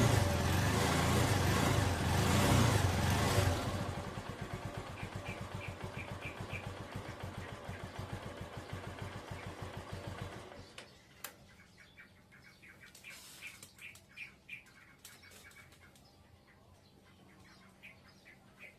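Kawasaki TMX Supremo 150 motorcycle's single-cylinder engine running loudly, then dropping to a slow, even putter at idle about three and a half seconds in, and cutting off about ten seconds in. Birds chirp in short bursts through the second half.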